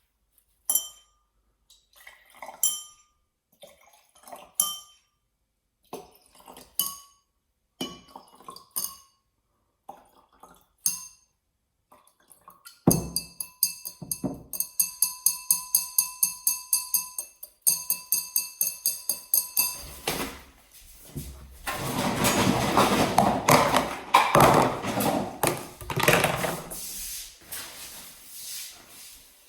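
A jacket played as a sound source: single ringing clinks about every two seconds, then a fast even ticking with a held ringing tone, then a dense, loud rustling and scraping that fades near the end.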